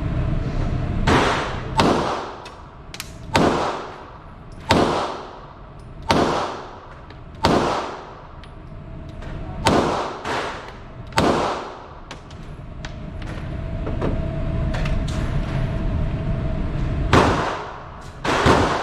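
9mm pistol shots fired at a slow, steady pace, about one every second and a half, each with a long echoing tail. After a pause of several seconds, two more shots come near the end. Fainter shots from other shooters sound between them.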